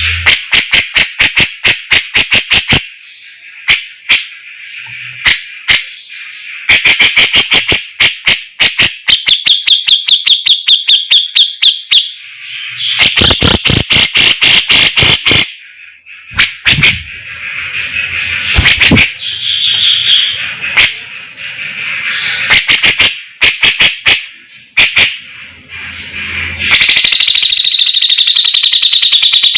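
Cucak jenggot (grey-cheeked bulbul) singing loudly in runs of rapid, sharp repeated notes, about ten a second, broken by short pauses, with a dense high trill near the end.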